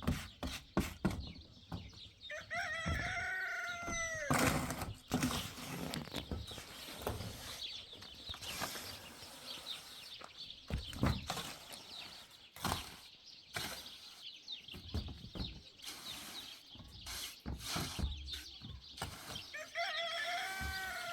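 A rooster crowing twice, once about two seconds in and again near the end, each crow one arching call. Irregular knocks and clicks run throughout.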